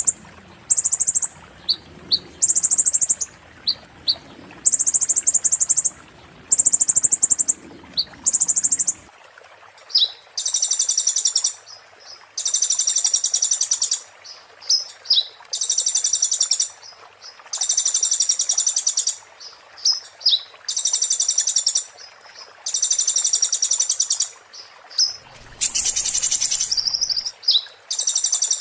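Kolibri ninja (konin) sunbird singing: high, rapid buzzy trills about a second long, repeated every two seconds or so, with short sharp chips between them. This is the piercing 'muntah beling' song used as training material for magpie-robins and white-rumped shamas. A brief rustle-like noise comes near the end.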